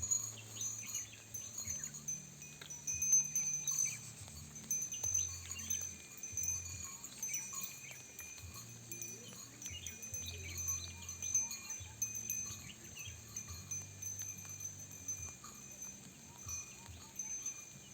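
Soft, irregular bell-like chiming over a low hum that jumps between a few pitches.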